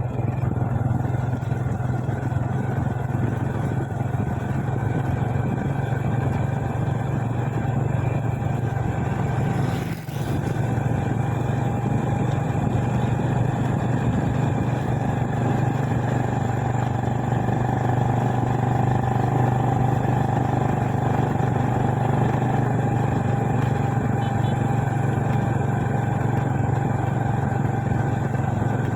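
Motorcycle engine running at a steady cruising speed while being ridden, with a strong, even low hum and road and wind noise. There is a brief dip about ten seconds in.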